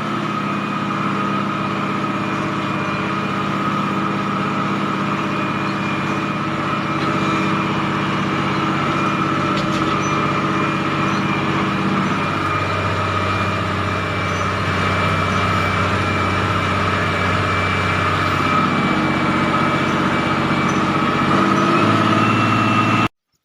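MTZ-1221 tractor's six-cylinder turbo diesel running steadily under way, with a steady high whine over the engine note. The sound cuts off suddenly near the end.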